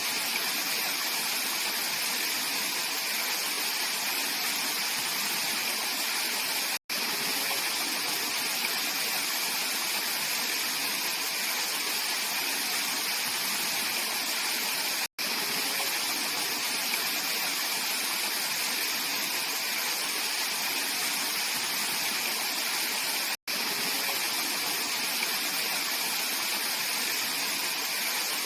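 Mountain stream rushing over rocks, a steady, even rush of water. The sound cuts out for an instant about every eight seconds.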